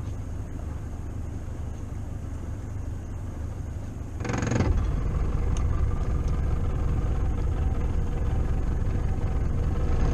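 Fishing boat's motor running at low speed, a steady low rumble that gets louder after a short rush of noise about four seconds in, as the boat is eased along a few feet.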